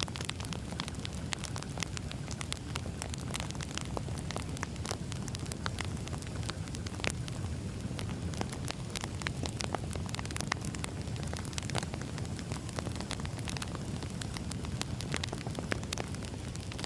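Wood fire burning steadily, with a low rumble of flame and frequent sharp, irregular crackles and pops from the burning logs.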